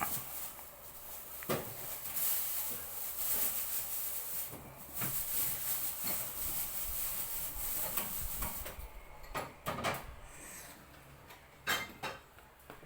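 Eating and food-handling noises: rustling and scraping with several sharp knocks of utensils or containers, the rustling easing off after about nine seconds.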